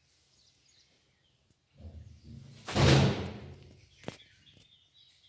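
Faint, high bird chirps, interrupted near the middle by a low rumble that swells into a loud rushing thump lasting under a second, followed by a sharp click.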